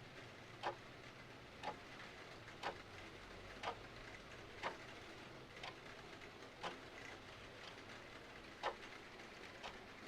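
Clock ticking about once a second, some ticks louder than others, over a soft steady hiss of rain.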